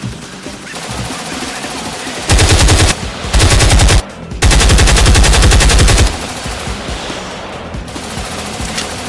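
Rapid automatic gunfire in three bursts, starting about two seconds in, the last and longest running about a second and a half, over background music.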